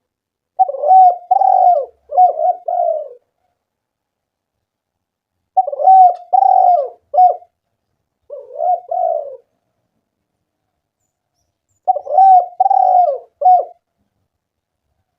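Spotted dove (tekukur) cooing: three phrases of a few low coos each, coming about every five to six seconds, with dead silence between them.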